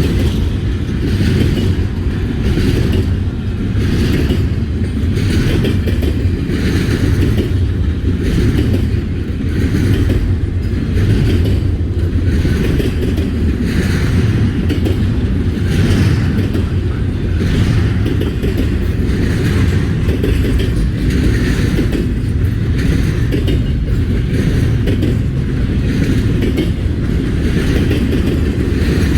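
Double-stack freight train cars rolling past close by: a steady low rumble with a repeated clatter of wheels over the rail joints.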